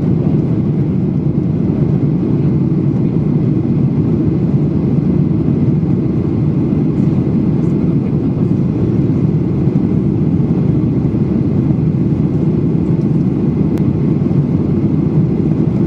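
Airliner cabin noise: a steady, even low rumble of engines and airflow heard from inside the passenger cabin.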